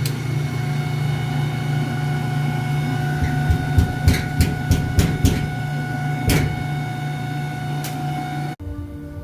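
Old washing machine running with a steady hum and whine that has become a weird new noise, with a run of irregular sharp knocks from about three to six seconds in. The sound stops abruptly near the end.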